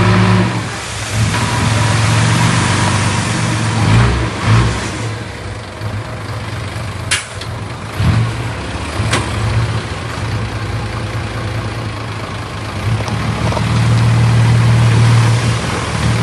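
Heavy earthmoving machine's diesel engine running, from a bulldozer or dump truck at work, with a few short thumps around four and eight seconds in. The engine grows louder over the last few seconds.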